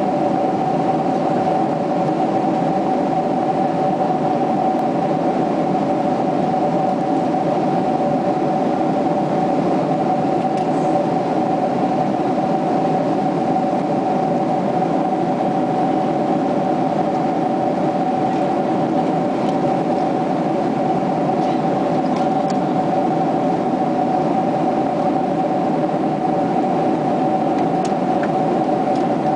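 Steady cabin drone inside a Boeing 767-300ER in level flight: engine and airflow noise with two steady hum tones running through it, unchanging throughout.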